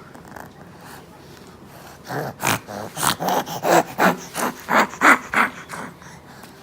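A rapid run of about ten short, breathy snort-like vocal sounds over about three seconds, starting about two seconds in.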